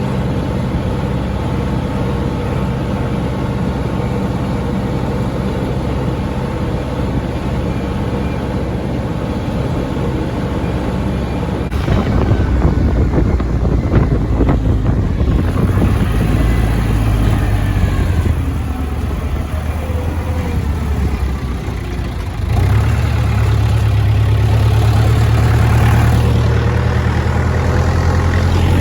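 John Deere tractor engine running steadily while hauling a load of straw bales. The engine note changes about twelve seconds in, and the engine grows louder and deeper about two-thirds of the way through.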